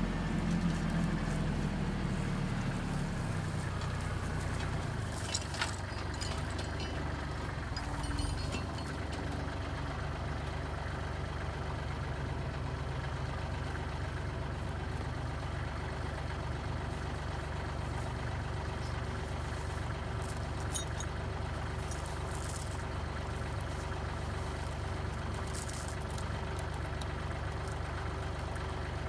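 Kubota L3830 tractor's diesel engine running steadily, a little louder in the first couple of seconds, with a few brief knocks now and then.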